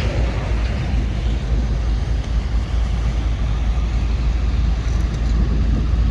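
Steady low rumble of heavy vehicle engines running, with road noise.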